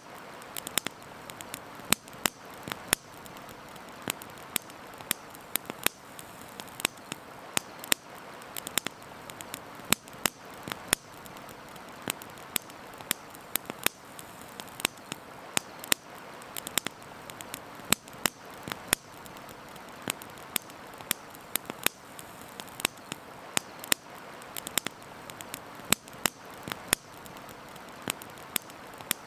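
Campfire crackling: irregular sharp pops and snaps, several a second and some much louder than others, over a steady soft hiss.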